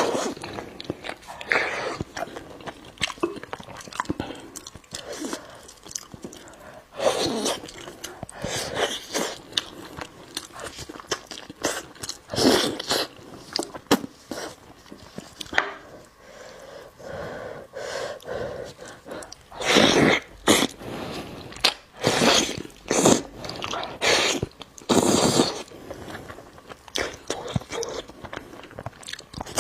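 Close-miked eating of meat: irregular chewing and biting, with many short wet clicks and louder bursts of chewing.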